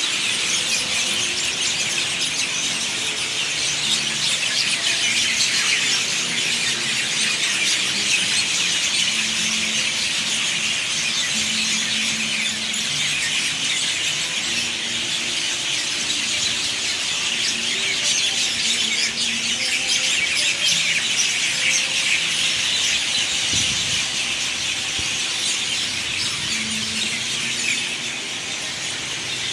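Dense chorus of many birds calling at once: a constant, high twittering chatter with short, lower calls scattered underneath.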